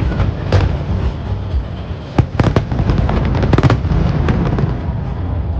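Aerial fireworks bursting: a run of sharp bangs over a continuous low rumble, thickest from about two to four seconds in, then thinning out near the end.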